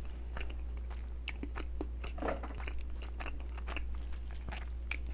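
A person chewing a mouthful of strawberry-yogurt cream doughnut close to the microphone, with many small irregular mouth clicks.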